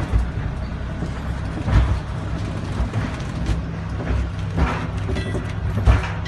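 Tourist mine train running on its track: a steady low rumble with irregular knocks and clacks from the wheels and cars.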